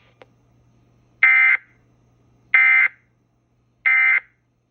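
Three short, identical data bursts of Emergency Alert System code, about a second apart, from a TFT EAS encoder/decoder relaying an alert. Coming right after the Amber Alert text, they are the end-of-message code that closes the relay.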